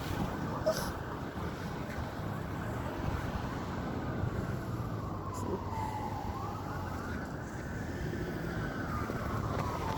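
An emergency vehicle's siren wails, rising and falling slowly about every four seconds, over a steady low rumble of traffic.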